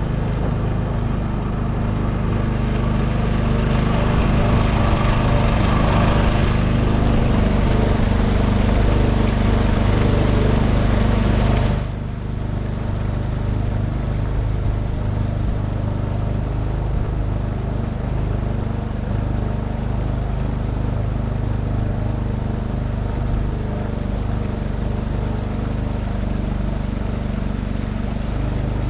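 Boat motor running steadily under way, with a wash of water and wind noise over it. The level drops abruptly about twelve seconds in, then the motor carries on steady.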